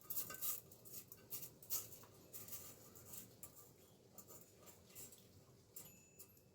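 Faint, irregular scratching and clicking, quite busy at first and thinning out over the following seconds.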